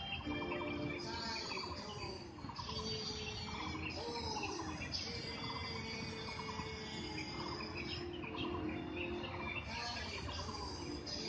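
Birds chirping in short trills about once a second, over slow background music with long held notes.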